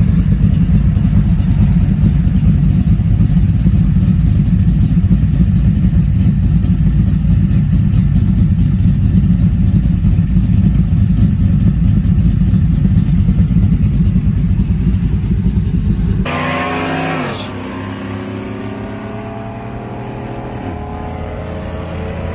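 Truck engine with a freshly installed custom-grind camshaft, running loudly and steadily at idle. About 16 seconds in, a different recording takes over in which the engine revs up, its pitch rising and stepping up as it accelerates.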